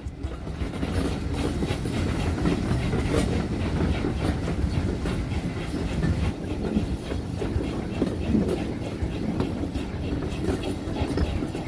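Heritage steam train's carriage running along the line, heard from a carriage window: a steady rumble of wheels on rail with a quick scatter of clicks over the track.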